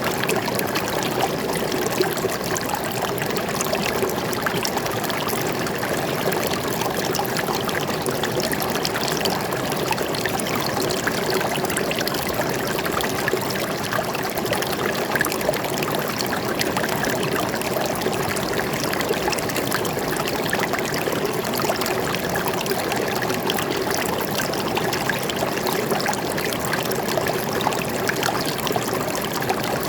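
A small stream or brook flowing and trickling steadily over rocks, a constant splashing rush of water.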